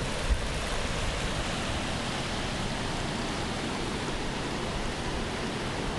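Steady rushing of a small Ozark tributary stream's water flowing over its bed.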